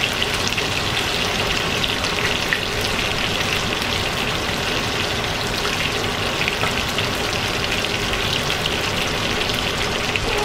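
Bourbon-marinated chicken thighs frying in oil in a pan: a steady sizzle with scattered small crackles and pops.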